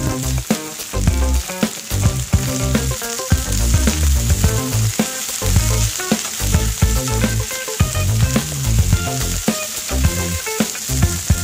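Sliced ivy gourd sizzling in hot oil in an aluminium wok, stirred with a metal spatula that clicks and scrapes against the pan. Background music with a steady beat plays over it.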